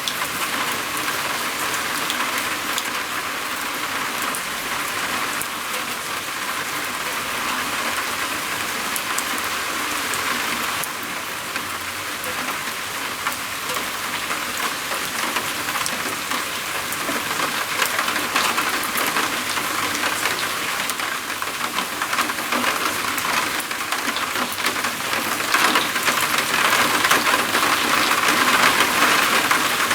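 Rain falling on a roof, a dense steady patter of drops that grows louder in the last few seconds.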